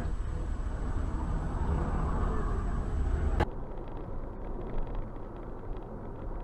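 Steady rumble of a vehicle's engine and road noise picked up by a dash cam. About three and a half seconds in it cuts abruptly to a quieter recording of vehicle rumble.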